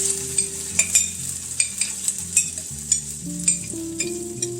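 A utensil stirring tomatoes and juice in a frying pan, tapping and scraping against the pan about twice a second over a light sizzle. Soft background music with low held notes plays underneath.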